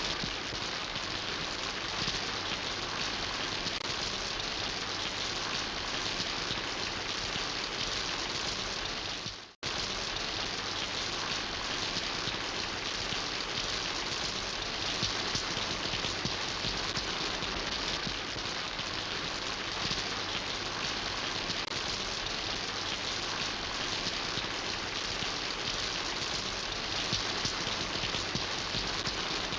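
Steady rain falling: an even, dense hiss with no distinct drops or rhythm. About nine and a half seconds in, the sound cuts out for a split second and comes straight back.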